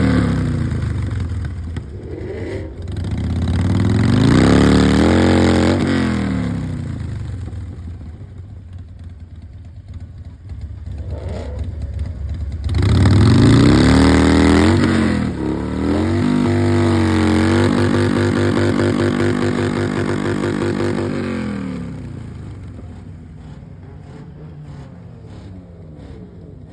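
Car engine revved hard three times, each rev climbing and falling back, then held at high revs for about five seconds before dropping back to a quieter idle.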